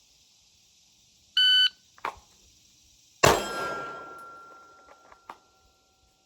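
A shot timer beeps once, a click follows, and about a second and a half after the beep a single pistol shot goes off during a draw from the holster. The shot echoes and decays over about two seconds with a thin ringing tone lingering, and two small clicks follow near the end.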